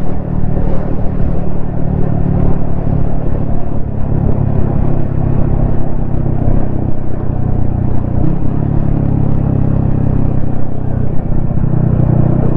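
Yamaha XSR155's single-cylinder engine running steadily at cruising speed, heard from a helmet-mounted camera, with a brief dip and return in the engine note about eight seconds in.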